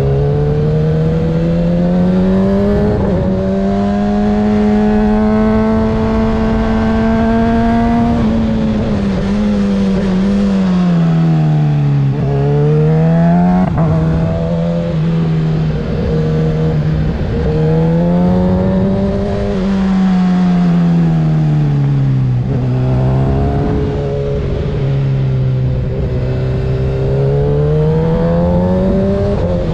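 2024 Kawasaki ZX-6R's 636 cc inline-four with a Graves aftermarket exhaust, under way: the engine note climbs steadily for the first several seconds, then falls away, and rises and falls again and again as the throttle is rolled on and off.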